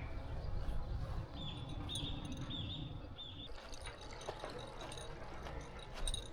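A bird calling four times in short, quick notes about a second and a half in, over a steady low rumble.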